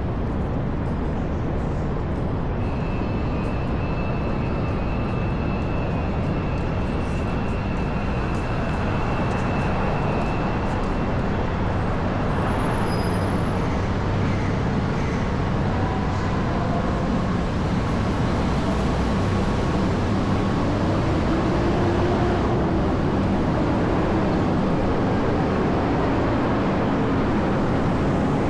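Steady downtown street traffic noise, cars and buses passing, growing slightly louder toward the end. A faint high steady whine runs through the first several seconds.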